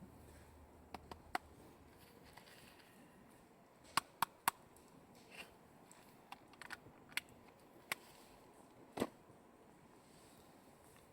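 Wood in a campfire crackling: scattered sharp pops over a quiet background, with a quick cluster of three about four seconds in and a fuller pop about nine seconds in.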